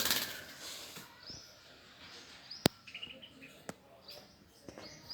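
Pet lovebirds chirping in short, high calls, with a sharp click about two and a half seconds in and a fainter one a second later.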